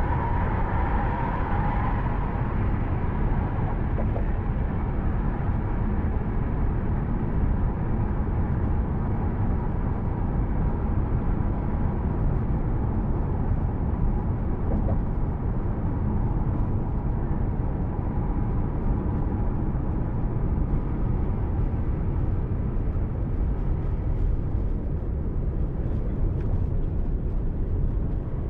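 Steady car driving noise, the low rumble of engine and tyres on the road with no sudden events.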